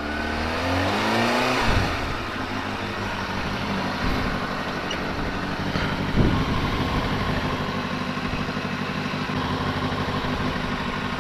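Kawasaki ZX-6R inline-four sport bike engine pulling away, its pitch rising for the first couple of seconds, then running steadily at low speed. There is a short sharp blip about six seconds in.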